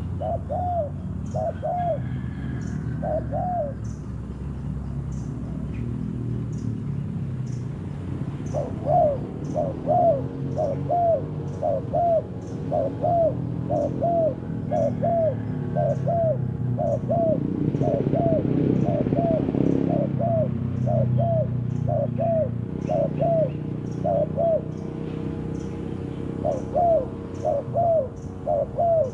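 Spotted dove (terkukur) calling in long runs of short, evenly repeated coo notes, about two a second, with a pause of a few seconds early on, over a steady low rumble.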